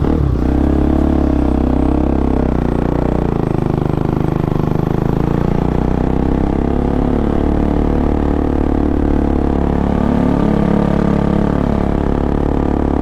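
Bajaj Pulsar NS200's single-cylinder engine running loud through an Akrapovic exhaust with the dB killer removed, as the bike is ridden. The exhaust note rises and falls with the throttle a few seconds in and again near the end.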